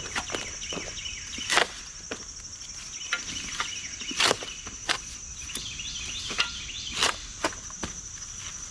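A steady, high, pulsing insect chorus, with sharp crunching impacts every one to three seconds.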